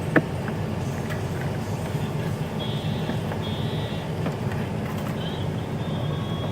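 Jeep Grand Cherokee engine idling steadily, with one sharp click just after the start. Two faint, short high tones sound in the middle and near the end.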